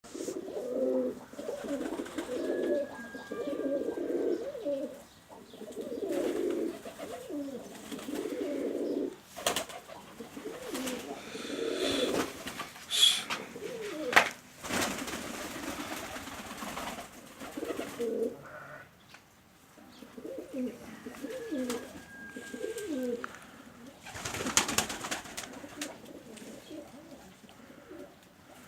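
Doves cooing in repeated low phrases, several birds at once, with a few short clatters or thumps in the middle and near the end.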